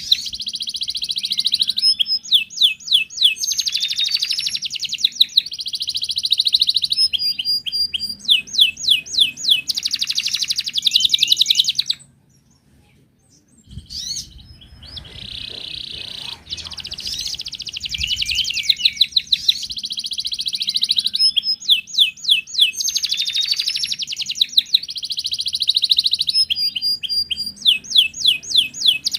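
Wild canary singing long, rapid trilled and warbled phrases, breaking off for about a second and a half about twelve seconds in before starting again.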